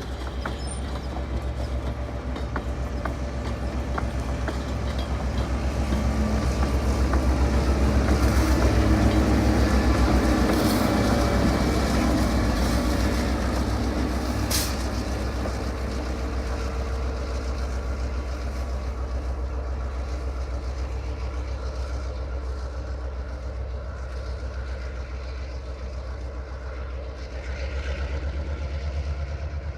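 Diesel-hauled passenger train running along the track: the steady low drone of an EMD GP9 diesel locomotive mixed with the rumble of wheels on rail. The sound swells to its loudest about a third of the way through, then eases off, with a single sharp click near the middle.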